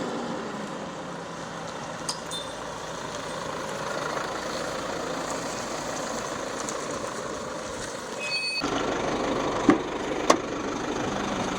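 A motor vehicle running: steady engine and road noise. The sound changes abruptly about eight and a half seconds in, and two sharp clicks follow near the end.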